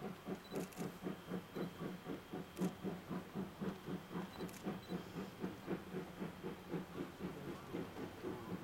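C58 steam locomotive working hard, its exhaust chuffing in a steady, even rhythm of about three to four beats a second.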